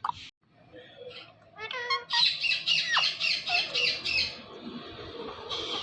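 Pet green parrot squawking: a short call about two seconds in, then a rapid run of harsh, high notes, about seven a second, lasting some two seconds, and more rough calls near the end.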